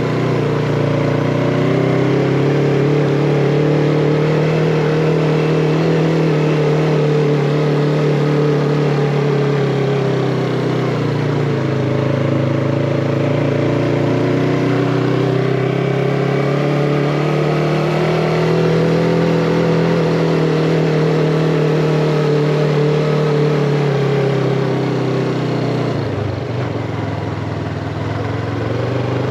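Yamaha MT-25's parallel-twin engine running on the move over a steady hiss, its pitch slowly rising and falling with the throttle. Near the end the engine note drops away briefly before picking up again.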